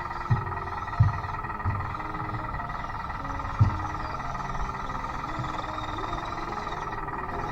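Small electric drive motors and gearboxes of an RC-converted Bruder D5 toy bulldozer whining steadily, with a few dull thumps in the first four seconds.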